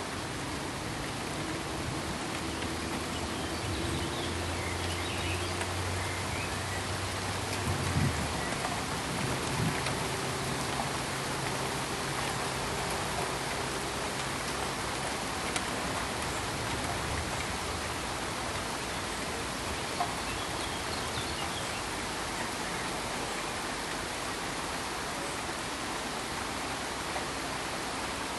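Steady pink noise, an even rain-like hiss, with a faint low hum through the first half and a soft knock about eight seconds in.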